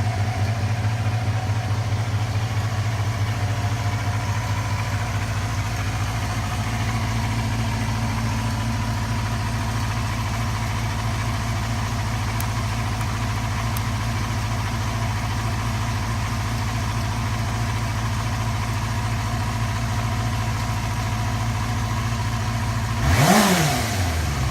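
Yamaha FZR250's 250 cc inline-four engine idling steadily, given one quick blip of the throttle near the end that rises and falls in pitch.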